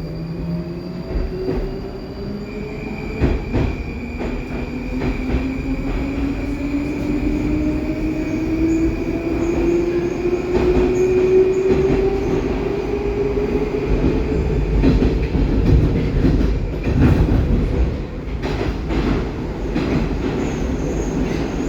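Metro train of the 81-722 'Baltiets' type heard from inside the car while under way. An electric traction whine climbs steadily in pitch through the first dozen seconds as the train picks up speed, over a steady high tone and the rumble of the wheels. Sharp knocks and clicks from the wheels running over the track grow more frequent in the second half.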